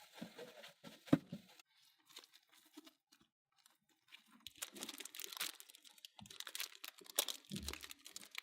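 Hand-work noises: scattered clicks and crinkly scraping, sparse at first and growing denser about halfway through.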